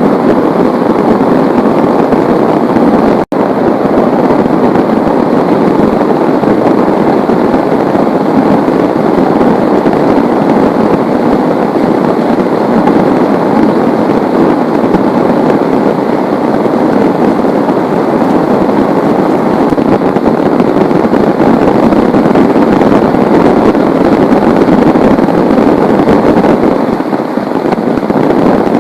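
Heavy rain pouring down in a steady, loud downpour. It cuts out for an instant about three seconds in.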